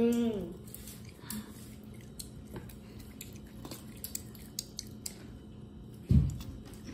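A child eating with her hands at a table: scattered small clicks and chewing sounds. A single loud, low thump comes near the end.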